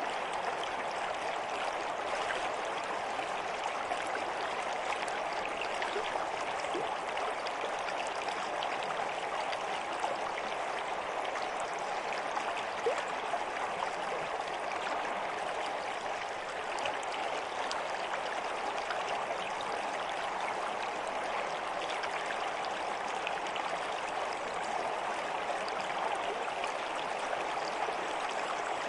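Water flowing in a stream: a steady, even rush of running water with no pauses or changes.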